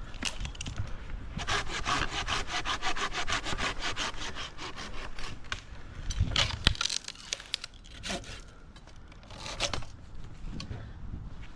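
A hand pruning saw cutting through a branch in quick, even rasping strokes for a few seconds. A couple of knocks and rustles follow.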